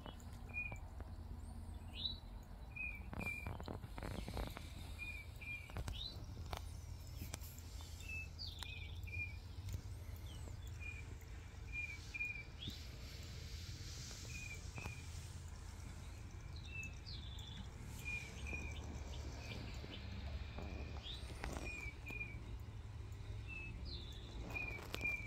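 A small bird calling over and over: short high notes, mostly in pairs, repeated every second or two, with an occasional quick rising chirp.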